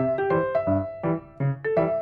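Background music: piano or electric keyboard playing a lively run of notes.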